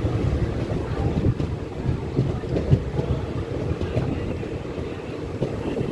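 Steady low rumble and rattle of a moving vehicle.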